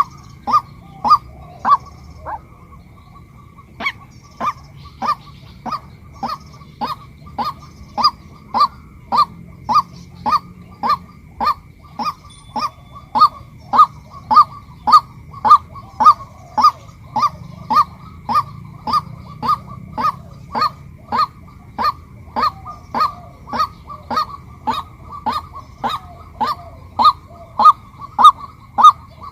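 Female white-breasted waterhen calling: a long run of short, loud, evenly repeated notes, roughly two a second, with a break of about a second and a half near the start.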